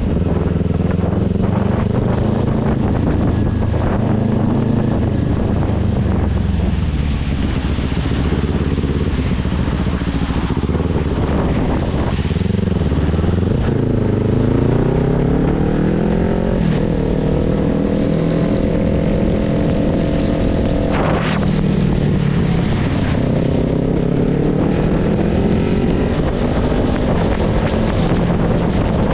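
Kawasaki Ninja 400's parallel-twin engine running under way over a steady rush of wind and road noise. The engine's pitch holds steady, falls about twelve seconds in, then climbs again as the revs build back up.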